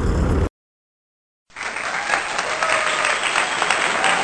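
Rumbling ride noise cuts off half a second in. After about a second of dead silence, dense applause starts and keeps going.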